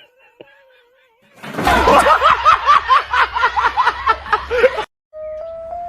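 Laughter in a quick run of repeated bursts, about four a second, for about three seconds. Near the end it gives way to a short series of steady stepped electronic tones as music begins.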